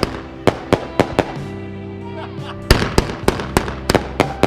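Fireworks going off in a rapid, irregular string of sharp cracks, with a lull of about a second and a half midway before the cracks pick up again. Music plays underneath.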